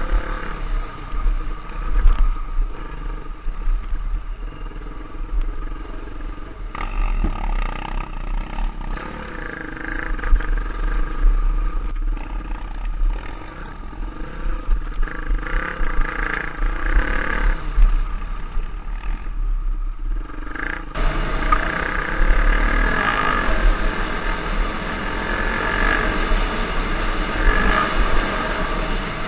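Off-road trail motorcycle engine running under way, its revs rising and falling as it is ridden, with a constant low rumble underneath; the sound grows brighter and fuller about two-thirds of the way through.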